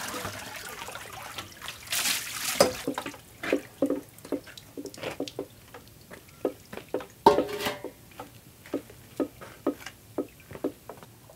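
Liquid dripping and splashing irregularly into water, a few drops a second, with two louder splashes, one about two seconds in and one past the middle.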